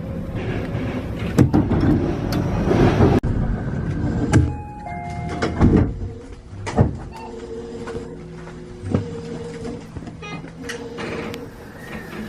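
Tobu 50090-series electric train running, heard from inside the car: a steady rumble broken by irregular knocks and clatter from the wheels and running gear, with a steady electric hum coming and going.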